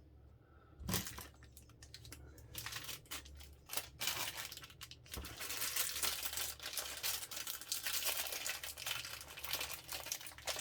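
Crinkly plastic bag being handled and rummaged through for small kit parts, a dense run of irregular crackles that starts about a second in.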